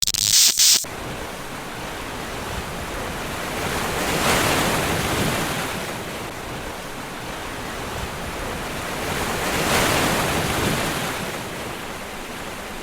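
Ocean surf washing ashore, swelling twice about five seconds apart, with wind on the microphone. A short loud hiss comes in the first second.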